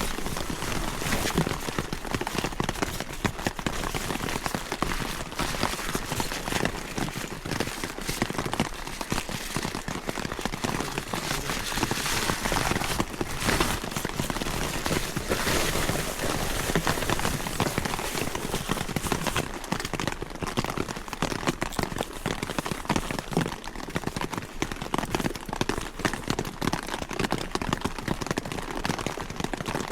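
Heavy rain pattering steadily on a tent, heard from inside as a dense, even hiss of drops.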